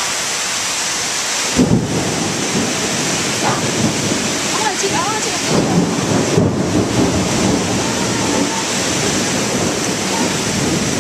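Heavy rain pouring down steadily, with a rumble of thunder breaking in about a second and a half in and rolling on unevenly through the rest.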